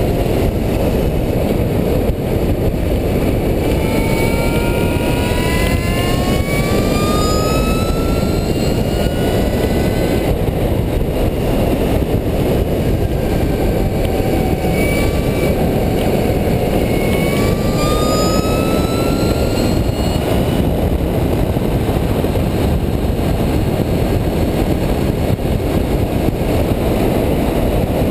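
Heavy wind rushing over the microphone at speed, with the electric bicycle's motor whining and rising in pitch as it accelerates, a few seconds in and again past the middle.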